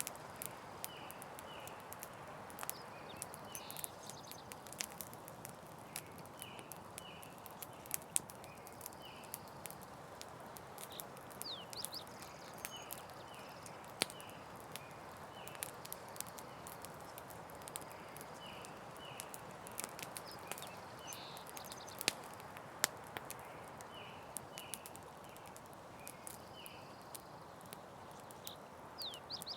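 Campfire crackling, with frequent sharp snaps and pops over a steady soft hiss. Short high chirps repeat in small groups throughout.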